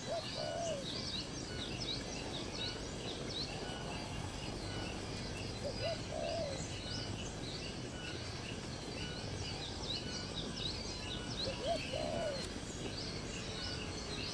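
Birds calling: a short, low hoot-like call repeats about every six seconds, over many quick high chirps, with a steady background hiss.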